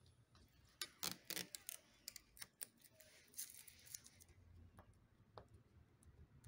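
Faint clicks and scratching as old adhesive tape residue is scraped and picked off the iMac's display frame, a quick run of sharp ticks in the first few seconds, a short scrape, then a couple of lone clicks.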